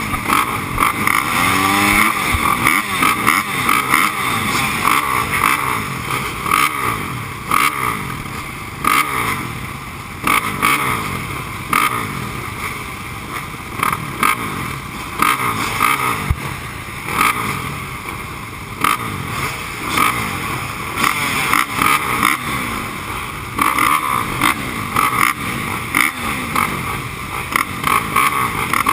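Kawasaki KX450F four-stroke single-cylinder motocross engine revving hard and backing off again and again as the bike is ridden around the track, with wind noise and knocks on the GoPro's microphone.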